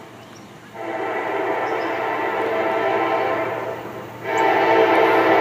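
Freight diesel locomotive horn sounding two long blasts, a multi-note chord held steady; the first starts about a second in, and the second, louder one follows after a short break near the end.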